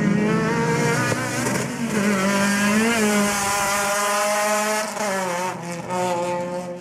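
Proton Satria Neo's rebuilt and tuned Campro 1.6 four-cylinder engine held at high revs, its exhaust note steady in pitch with slight wavering and two brief dips near the end.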